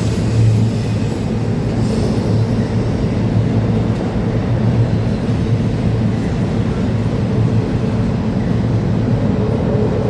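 Freight train rolling past, a loud steady rumble of wheels on the rails.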